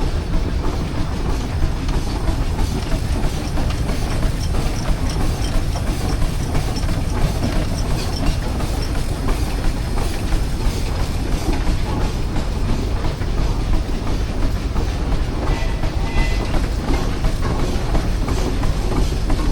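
Steady low mechanical rumble with a dense, rapid rattling clatter, like heavy machinery rolling along.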